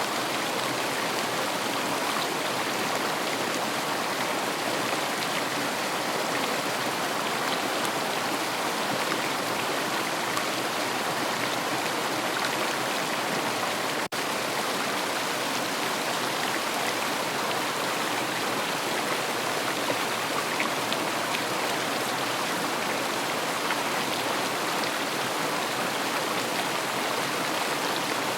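River water flowing and rushing steadily, an even wash of noise with a momentary dip about halfway through.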